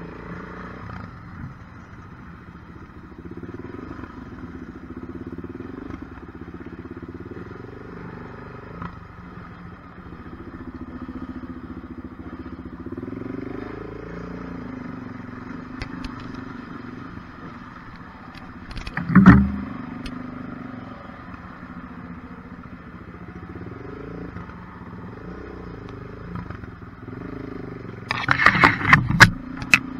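Kawasaki KLR250 trail bike's single-cylinder four-stroke engine running at low speed, its pitch rising and falling with the throttle. A loud thump comes about two-thirds of the way through, and a burst of clattering knocks near the end.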